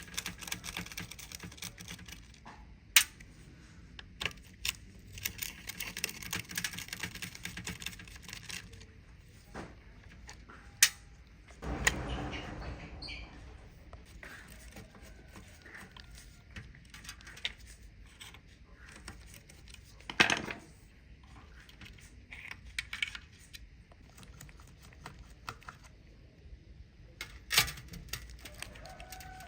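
Scattered sharp clicks and clinks of hand tools and small hard parts being handled at a workbench, with a few louder knocks and a brief scraping, rustling stretch about twelve seconds in.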